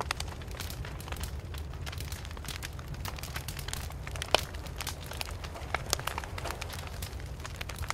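Wood fire burning and crackling, with irregular sharp pops and snaps over a steady low rumble, and one louder pop about four and a half seconds in.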